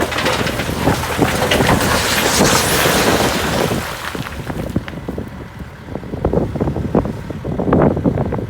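Hydrema 912 dumper's diesel engine running, loud with a rushing noise for the first three and a half seconds, then easing off, with a few scattered knocks and clanks.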